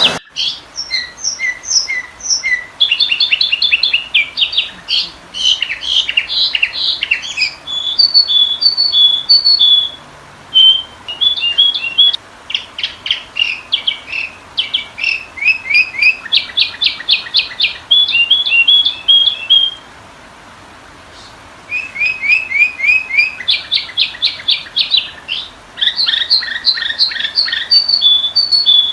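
Sooty-headed bulbul (kutilang) calls used as a lure: rapid series of sharp chirps and short chattering trills, pausing briefly about two-thirds of the way through before resuming.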